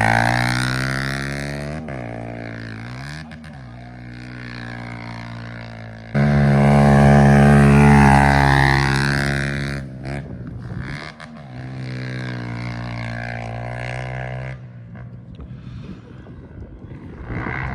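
125cc pit bike engine revving hard on the throttle, its pitch dropping and climbing as it shifts and comes on and off the gas. It fades away and then comes back loud about six seconds in and again near the end.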